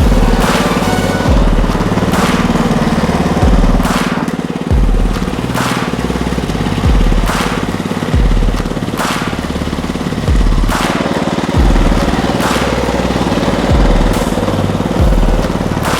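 Walk-behind tractor engine running under load, with a surge or knock roughly every second or so over a steady drone.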